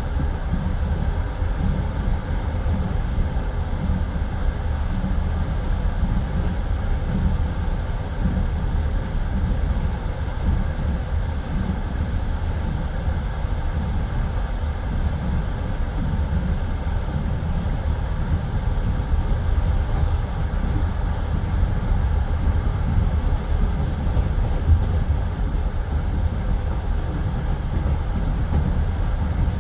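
Passenger train carriage running along the track, heard from inside the car: a steady low rumble of wheels on rails with faint scattered knocks.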